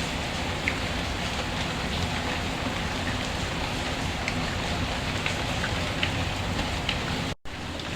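Steady rain falling, an even hiss with scattered small ticks, cut by a brief total dropout of the sound about seven seconds in.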